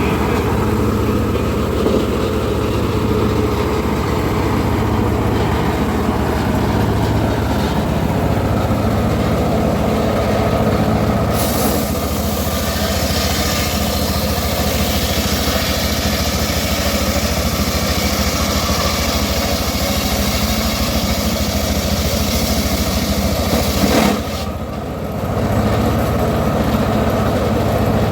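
Engine of a homemade circular sawmill running steadily. Partway through, the blade is cutting teak, adding a hissing noise that stops abruptly with a click near the end.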